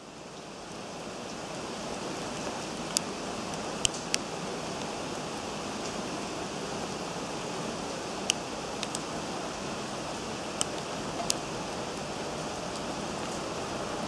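Steady rain hissing, with a few sharp drips ticking here and there.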